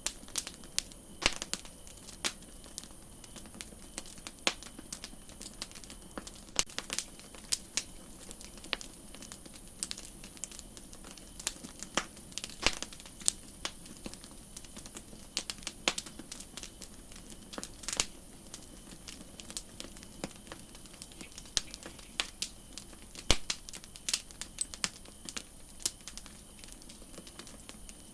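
Campfire crackling: irregular sharp pops and snaps of burning wood over a soft steady hiss.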